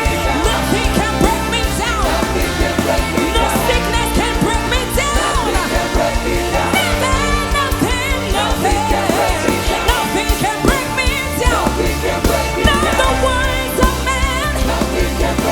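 Church worship music: voices singing over a full band with steady bass and drums, continuous and loud.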